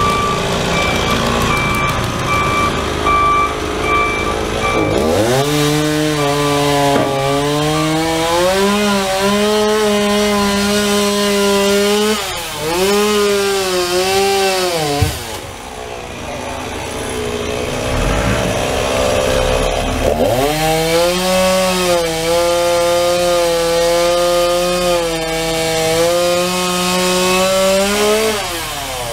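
Gas chainsaw cutting up a fallen tree: it revs up, is held at full throttle for several seconds at a time, and drops back to a lower speed between cuts, four or five times. A vehicle's reversing alarm beeps steadily through the first few seconds.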